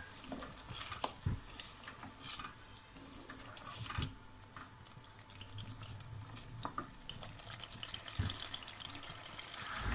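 Chicken masala frying in an aluminium pot with a faint sizzle, while a spatula scrapes and knocks against the pot a few times.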